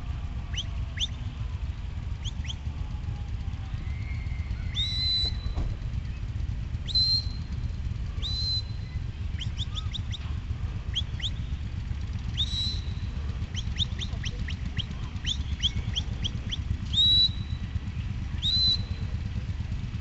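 A bird chirping repeatedly, with short sharp high calls at irregular intervals, some in quick runs. Beneath the calls is a steady low rumble.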